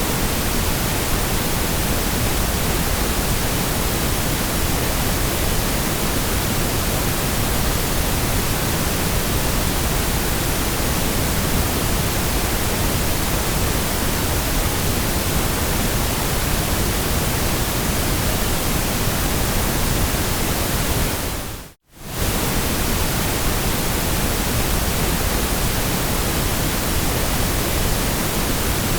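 Steady white noise, an even hiss with slightly more weight in the low end. About three quarters of the way through it fades out to near silence for a fraction of a second and comes straight back.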